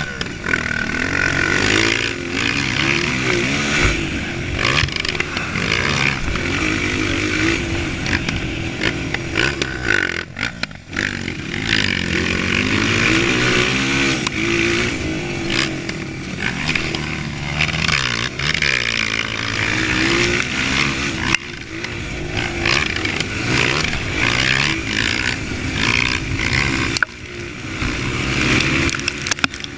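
Motocross dirt bike engine running hard, its pitch rising and falling again and again as the throttle opens and closes, dropping off briefly twice.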